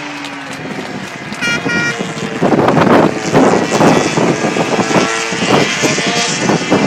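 MotoGP racing motorcycle engines revving and passing, louder from about two and a half seconds in, with two short high beeps a little before.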